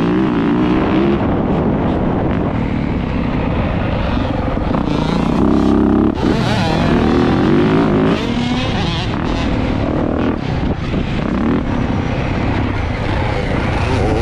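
Dirt bike engine riding a track, revving up and down as the throttle opens and closes, its pitch rising and falling, with brief drops about six and eight seconds in.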